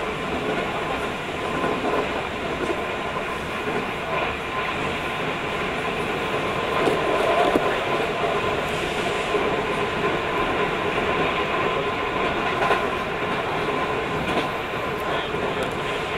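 Keio 5000 series electric train heard from inside the passenger car while running: a steady rumble of wheels on rail with a constant hum and a few sharp clicks.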